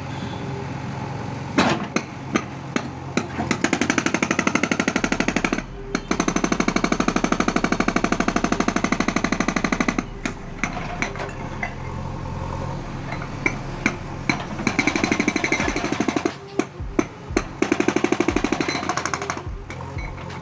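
JCB's hydraulic breaker hammering in rapid runs of blows lasting a few seconds each, the longest about four seconds, with single knocks between the runs, over the machine's engine running steadily.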